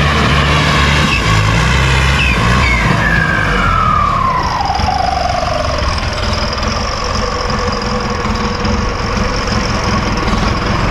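A heavy vehicle's engine running steadily, with a whistle-like tone that glides down from high to low a few seconds in.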